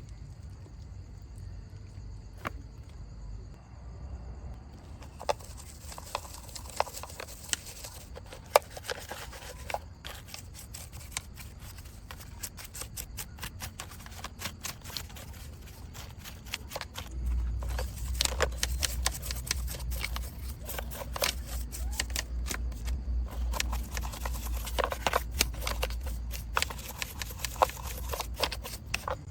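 Handling and cleaning a muddy die-cast model truck: scattered small clicks, taps and scrapes that grow busier, with a low steady hum joining about halfway through.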